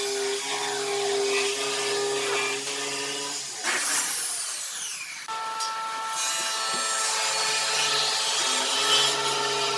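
An electric power tool running and working wood, with a steady motor hum whose pitch shifts about four to five seconds in.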